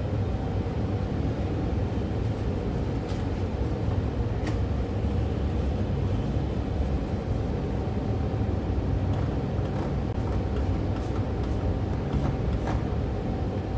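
Jakarta LRT light-rail train running: a steady low rumble with a faint constant whine and a few scattered light clicks.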